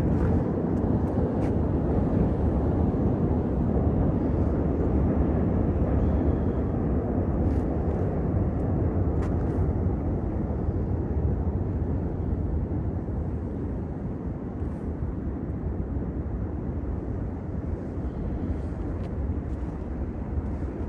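Steady low outdoor rumble, like city traffic or wind noise, easing slightly in the second half, with a few faint ticks.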